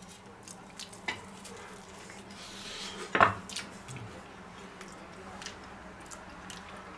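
Quiet eating sounds: people chewing bites of a hot fried Twinkie, with small wet mouth clicks and smacks, and a short vocal 'mm'-like sound about three seconds in.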